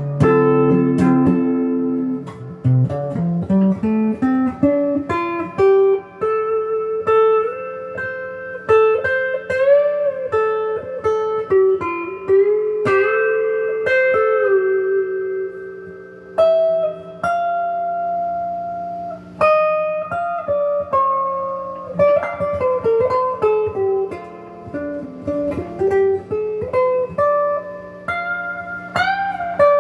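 Donner DLP124 electric guitar on its neck pickup, played clean through a Crate GX15 amp: single-note melodic lines with held, sustained notes and a few string bends.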